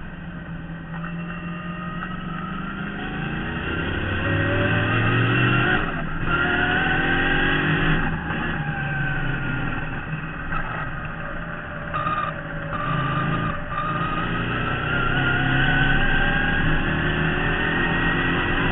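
Onboard sound of a 1972 Marcos GT's V8 race engine driven hard, pulling up through the revs and dropping back several times at gear changes and lifts for corners.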